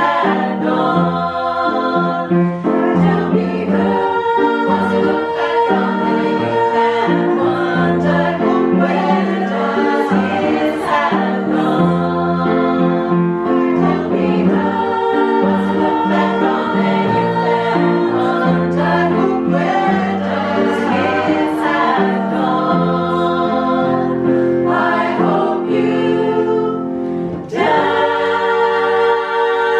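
A choir singing in harmony. Near the end the voices break off briefly, then come back on a long held chord.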